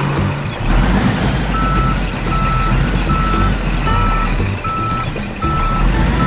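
Truck reversing beeper sounding a steady high beep about every 0.8 s, starting about a second and a half in, over a low truck engine rumble.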